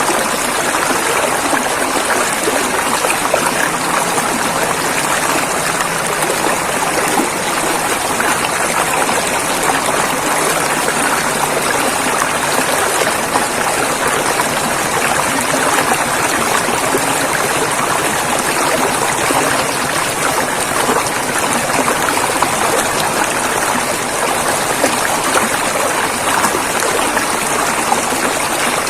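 River water flowing and rushing over rocks, a steady, even rush of water noise.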